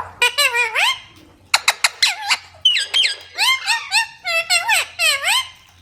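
Indian ringneck parrot calling: quick runs of shrill, squeaky notes that sweep up and down in pitch, in several bursts with short pauses between.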